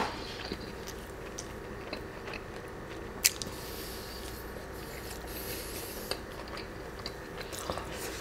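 Close-miked chewing of waffle fries: wet mouth sounds with scattered short clicks, one louder click about three seconds in.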